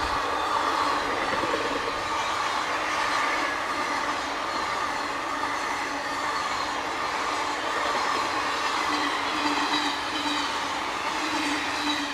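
Train coaches passing close at speed, with a loud, steady rush of wheels on the rails. A thin squeal from the wheels comes in about three-quarters of the way through.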